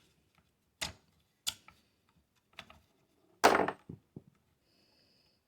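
A few sharp metallic clicks and taps of small rifle parts and a punch being handled during AR lower receiver assembly, with a louder short clatter about three and a half seconds in.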